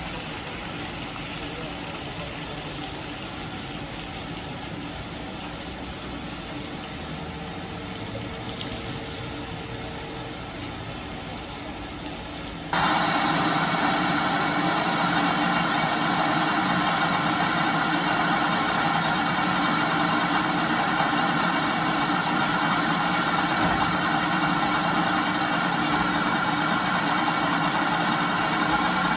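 Steady mechanical running noise of a heritage steam train. It jumps abruptly louder about halfway through and stays at that level.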